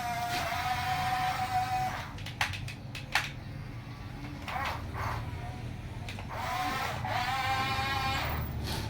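Small electric motor of a remote-control toy construction vehicle whining steadily, spinning up with a rising whine about two-thirds of the way in, with a few sharp plastic clicks in between.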